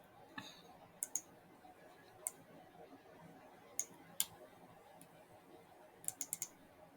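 Computer mouse clicking over faint room tone: a few single clicks and quick runs of two to four clicks, the longest run near the end.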